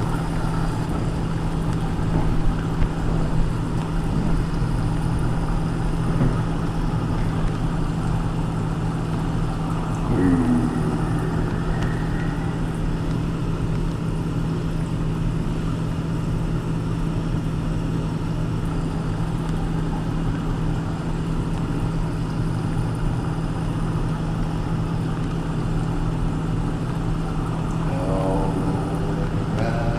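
Steady engine and road noise of a car being driven, heard from inside the cabin, with a constant low hum. A short falling tone sounds about ten seconds in.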